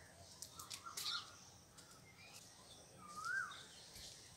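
Faint outdoor birdsong: a short whistled note that rises and then falls, clearest about three seconds in, amid fainter high chirps.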